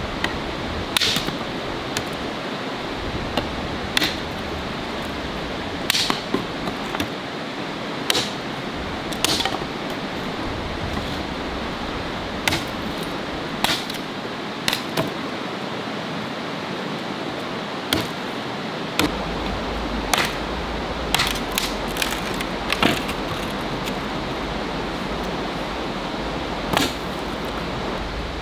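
Wood fire crackling: sharp, irregular pops over a steady hiss.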